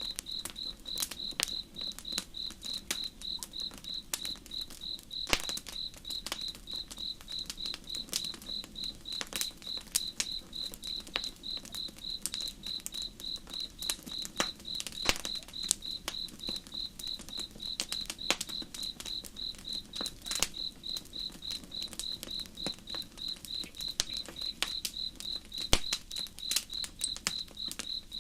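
Campfire crackling, with sharp irregular pops scattered through, over a cricket chirping in an even rhythm of about three high chirps a second.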